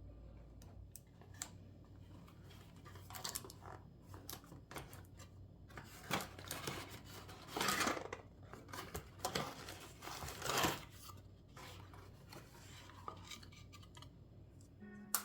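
Small household objects being handled at close range: scattered light clinks, taps and scrapes, with two louder scraping sounds about eight and ten and a half seconds in.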